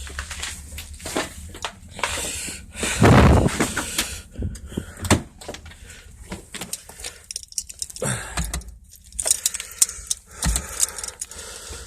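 Keys jangling, clicks and knocks of a car door and handling as someone gets into a car to start it, with a louder rush about three seconds in and a low steady rumble underneath.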